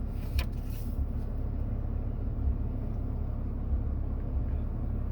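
Steady low rumble of a Ram 3500 pickup running and its climate-control fan blowing, heard from inside the cab. A single short click comes about half a second in.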